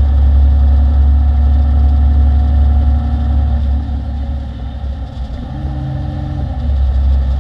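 Diesel engine of a 2016 Peterbilt 348 plow truck running with a deep, steady drone. A short steady tone sounds about five and a half seconds in and lasts about a second.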